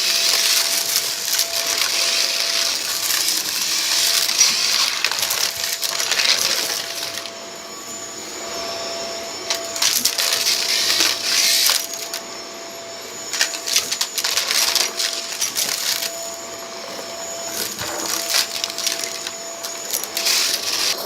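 Vacuum cleaner running with a steady motor whine while sucking up a debris mix from a rug, the bits rattling and crackling through the machine in dense bursts. Between bursts there are a few short spells where only the motor hums.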